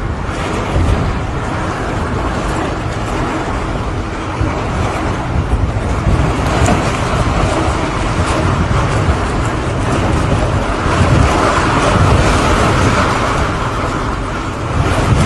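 Heavy rain falling: a steady, loud hiss of downpour with a low rumble underneath.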